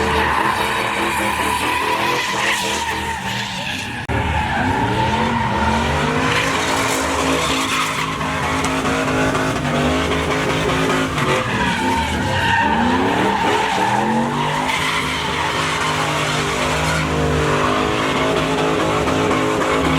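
Pickup truck doing a burnout: the engine revs up and down several times while the rear tyres spin and squeal against the pavement.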